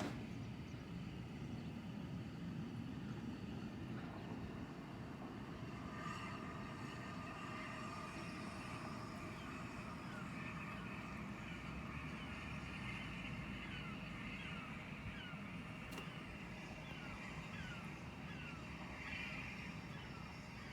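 A train running with a steady low rumble. From about halfway through, a regular run of short falling chirps sounds over it.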